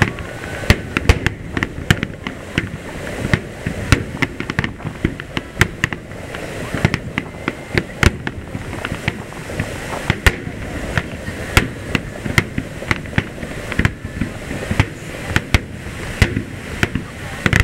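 Aerial firework shells bursting over the sea, many sharp bangs in quick, irregular succession that overlap one another.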